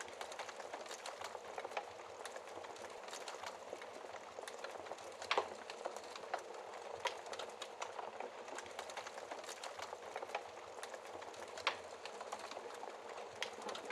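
Fire in a fireplace crackling steadily over a soft hiss, with sharper pops about five seconds in, about seven seconds in and near the end.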